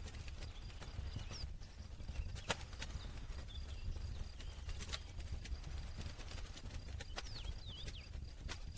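Campfire burning, with wood crackling and popping in irregular sharp snaps, over a steady low rumble of the fire.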